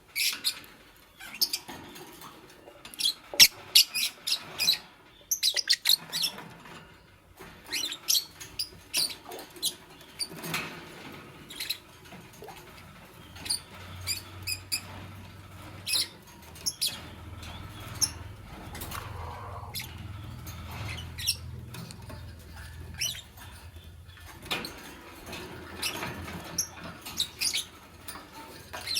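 Fischer's lovebirds chirping: many short, high, squeaky chirps in quick clusters, with brief pauses between bursts.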